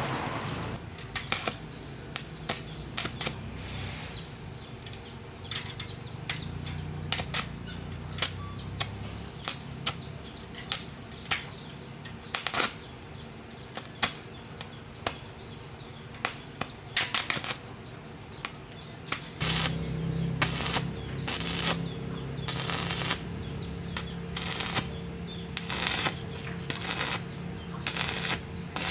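Irregular clicks and knocks of hand tools being worked, some in quick clusters, over a low steady hum that grows louder about two-thirds of the way through.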